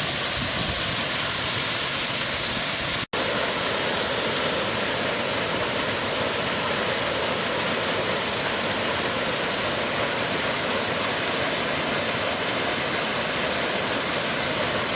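Waterfall in a mountain valley, its water rushing in a steady, even hiss. It cuts out for an instant about three seconds in.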